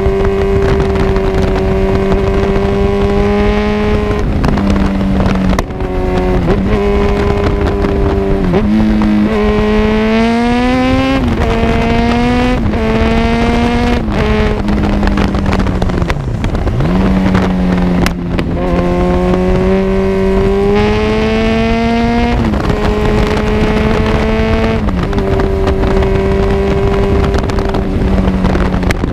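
Kawasaki Z1000's inline-four engine through an Arrow full exhaust system while riding: it holds a steady note, then rises in pitch several times as it accelerates, dropping back between pulls.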